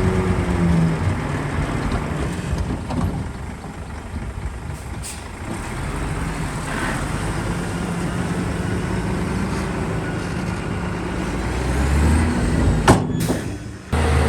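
Heavy diesel engine of earthmoving machinery running, fading and coming back, then growing louder near the end. A sharp short crack sounds about 13 seconds in, and the sound cuts off suddenly just before the end.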